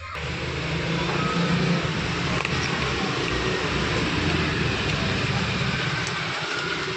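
A 13mm electric drill switching on abruptly and running steadily, its motor giving a constant whirring hum.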